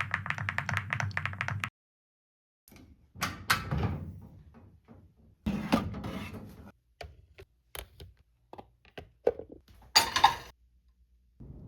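A series of household knocks and clunks, a door opening and shutting among them, with the loudest clunk near the end. A short run of quick rhythmic ticks comes first.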